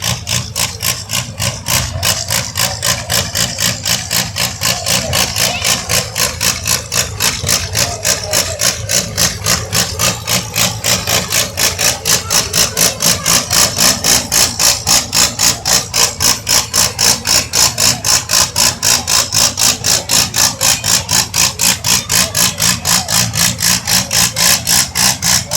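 A large engine idling with an even lope, pulsing about three times a second.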